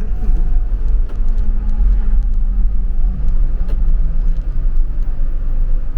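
Road vehicle running, a steady low rumble with a faint engine hum that sinks slightly in pitch and fades a little past the middle.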